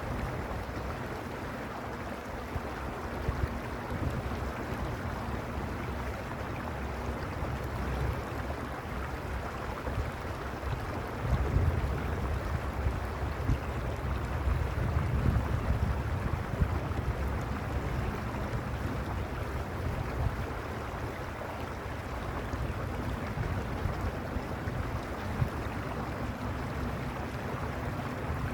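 Stream water rushing steadily over a rocky bed, with a deep low rumble that swells for several seconds near the middle.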